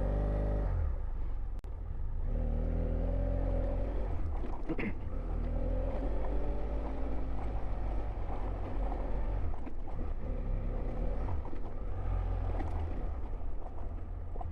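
BMW F700GS parallel-twin engine running as the bike is ridden slowly, its pitch rising and falling with the throttle, with a brief dip about a second and a half in, over a steady low rumble.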